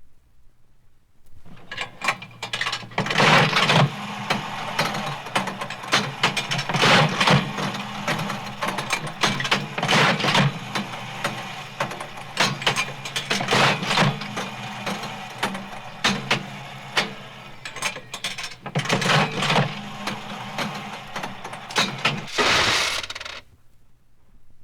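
A machine running with rapid clicking and clatter over a steady low hum, swelling into louder surges every three to four seconds. It ends with a last loud burst and stops abruptly near the end.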